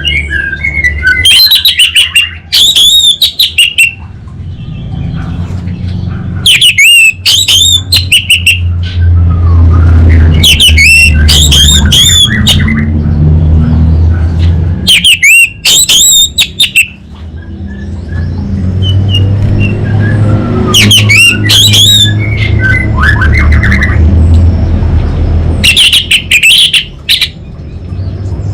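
Orange-headed thrush singing loudly in bursts of rapid, high sweeping notes, about six phrases a few seconds apart, over a steady low hum.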